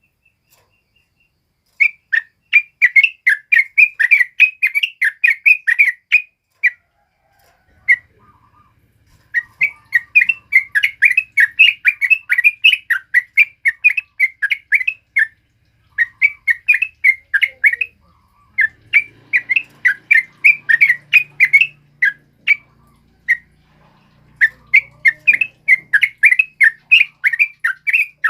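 Yellow-vented bulbul (trucukan) singing: fast runs of loud chattering notes, about five a second, in phrases several seconds long with short pauses between.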